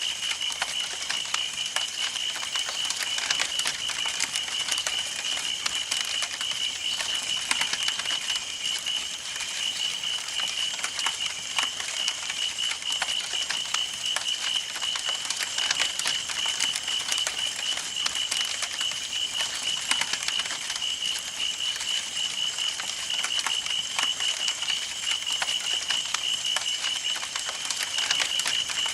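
Campfire burning, with dense, irregular crackles and pops from the burning wood. Behind it runs a steady, rapidly pulsing high-pitched chirring.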